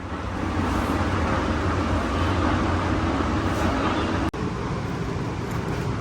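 Steady vehicle and road noise, a low rumble that breaks off abruptly about four seconds in and resumes slightly quieter.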